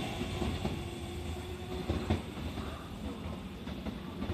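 Aichi Loop Railway 2000 series electric train pulling away and receding, its running rumble fading, with a few clicks of wheels over rail joints.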